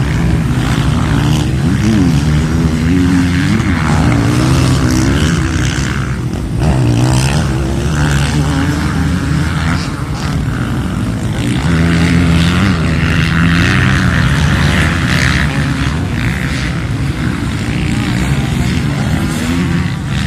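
Motocross bike engines revving up and down as the bikes race round the track, their pitch rising and falling with the throttle and gear changes, sometimes more than one bike at once.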